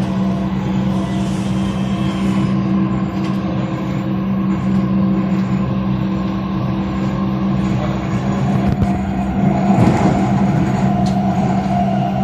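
Dubai Metro train running, heard from inside the car: a steady droning hum from the electric drive over the rumble of wheels on rail, growing louder and rougher about ten seconds in.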